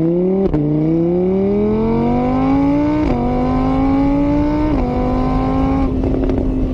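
Car engine accelerating through the gears. Its pitch climbs steadily and drops sharply at each of three upshifts, about half a second, three seconds and nearly five seconds in, then holds a steady pitch near the end.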